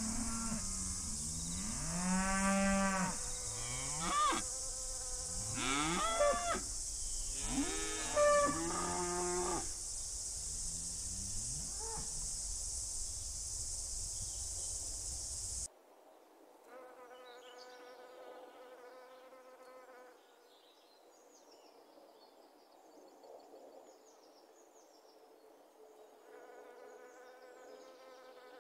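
Cattle mooing repeatedly, about six calls that rise and fall in pitch, over a steady high hiss of summer insects. About halfway through the sound drops to a much quieter field, where an insect buzzes steadily twice for a few seconds each time.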